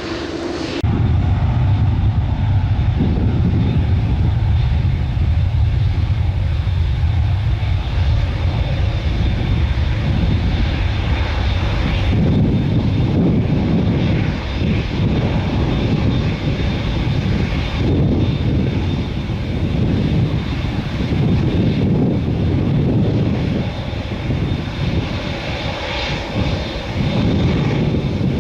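Boeing 787-10 jet engines at takeoff power, a loud, deep, rumbling roar that rises and falls in strength. It starts abruptly about a second in.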